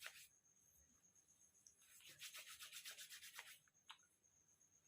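Faint rubbing of hands spreading facial oil over skin: a quick run of soft, even strokes about two seconds in, lasting over a second.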